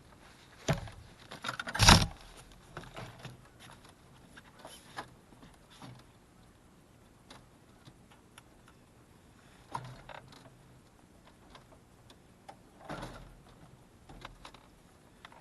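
Jon boat and its gear knocking and scraping while the boat is pushed off from shore, with a loud clatter about two seconds in and scattered lighter knocks after.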